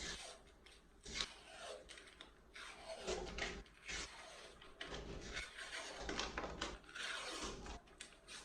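A can of refrigerated biscuit dough being worked open by hand: irregular scraping, rustling and light clicks as the wrapper is peeled and a spoon is pressed along the seam.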